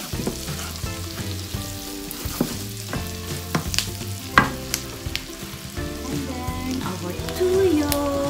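Pork pieces, onions and ginger sizzling in a non-stick frying pan as they are stirred with a plastic spoon, with scattered sharp clicks and scrapes of the spoon against the pan, the loudest about four seconds in.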